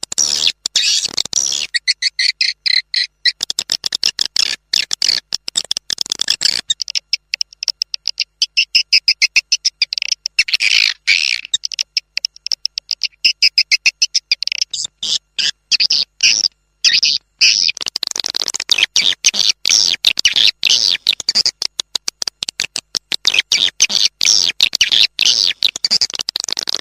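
Swiftlet lure call: swiftlets' rapid, high chattering twitter, dense chirps repeating many times a second, with a brief break about two-thirds of the way through. It is the call played to draw swiftlets into a house to nest.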